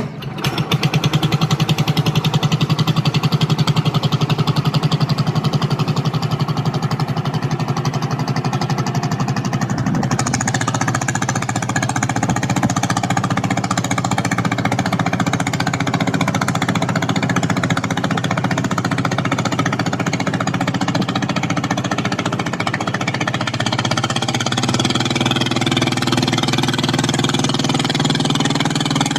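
Small engine of a mini boat running steadily with a fast, even chugging beat.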